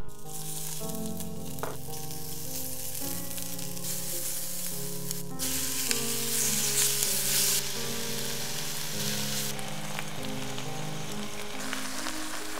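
Onions and kimchi sizzling in hot oil in a pot as they are stir-fried with chopsticks, the sizzle louder from about five seconds in to about seven and a half, over soft background music.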